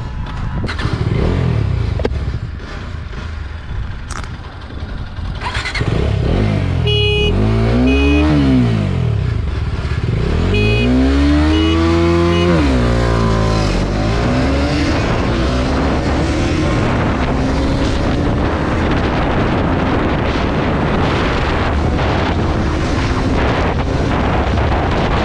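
Bajaj Dominar 250 and Pulsar AS 200 single-cylinder motorcycle engines accelerating hard. In the first half the revs rise and fall several times with gear changes; after that comes a long, slow climb in pitch in top gear as the bikes push toward top speed, over a steady rushing noise.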